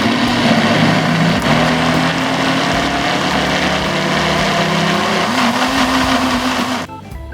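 Electric blender running at full speed, mixing yogurt cake batter: a loud rushing noise over a steady motor hum. The hum steps up in pitch about five seconds in, and the sound cuts off abruptly near the end.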